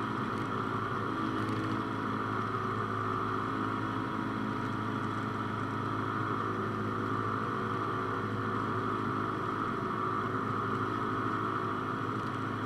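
Cessna 172's engine and propeller running steadily, a constant drone heard inside the cabin.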